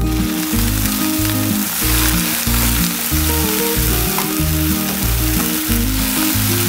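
Onion and chilli sizzling loudly in hot oil in a frying pan, with water added to the pan and a spatula stirring through it; the sizzle starts suddenly and stops suddenly. Background music with a steady beat plays underneath.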